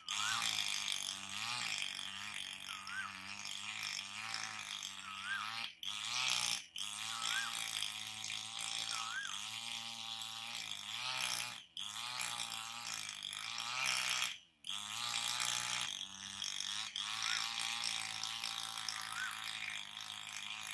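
Birds calling: a short rising-and-falling whistled note repeats every couple of seconds over a dense wavering chatter, with a steady low hum underneath. The sound breaks off completely for a moment three times.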